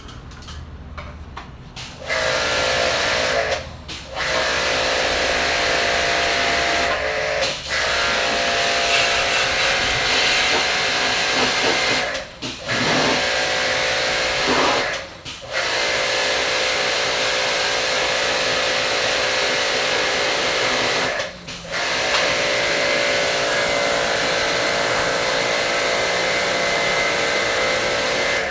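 Pressure washer spraying a hissing jet of water while its pump motor runs with a steady whine. It starts about two seconds in and cuts out briefly about five times.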